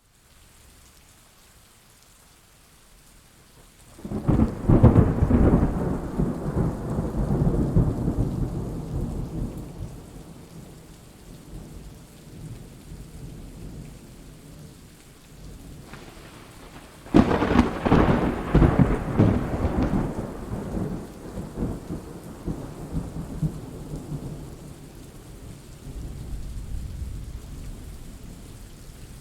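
Thunderstorm with steady rain. A thunderclap about four seconds in rolls into a rumble that fades over several seconds, a second sharp crack about seventeen seconds in does the same, and a fainter rumble swells near the end.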